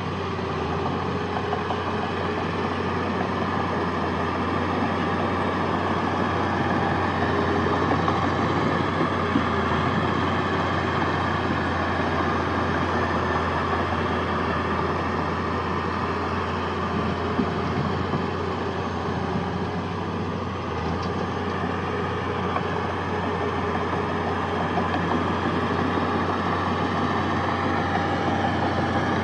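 Heavy diesel engine of earthmoving machinery running steadily, a constant low hum with mechanical clatter over it and no big changes in speed.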